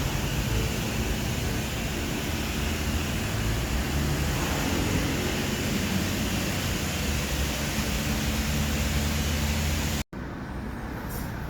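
Coin-op car wash high-pressure wand spraying water onto a ute's tub liner: a steady hiss over a low pump hum. It cuts off abruptly about ten seconds in, giving way to a quieter background with a few clicks.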